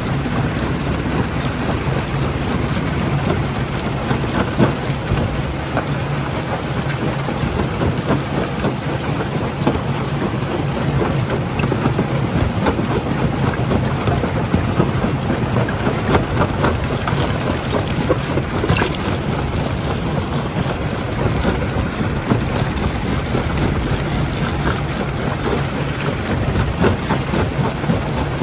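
Primary jaw crusher running and crushing rock: a steady low machine hum under continuous cracking and clattering of stone.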